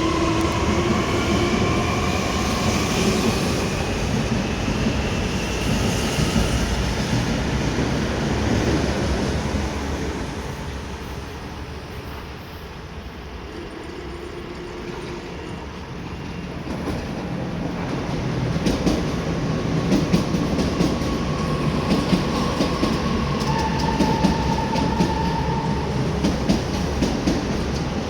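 EG2Tv electric multiple unit running on the rails, with wheel and running noise, a thin motor whine that rises in pitch early on and shifts later, and wheel clatter over rail joints. The noise eases off for a few seconds in the middle, then builds again.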